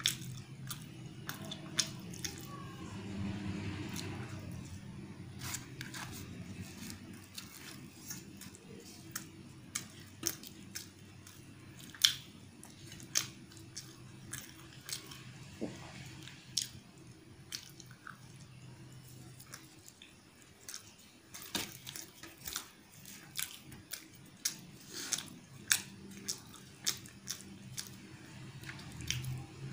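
Close-miked chewing and eating of puri with potato curry: a run of short, sharp, wet mouth clicks and smacks, coming more often in the second half, over a low steady hum.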